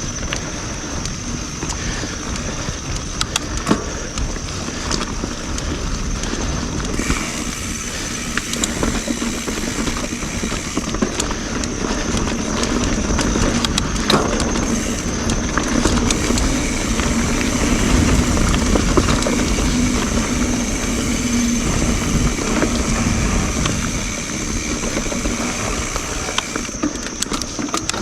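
YT Jeffsy mountain bike rolling over dirt singletrack: a steady rush of tyre and wind noise with scattered clicks and rattles from the bike.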